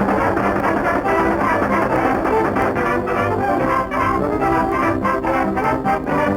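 Brass-led cartoon orchestral score, trombones and trumpets playing a busy, fast-moving passage.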